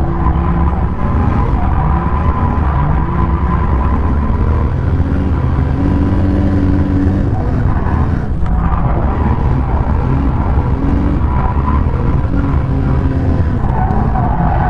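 Ford Scorpio's engine run hard while drifting, heard from inside the cabin. The engine note rises and falls with the throttle and dips briefly about eight seconds in.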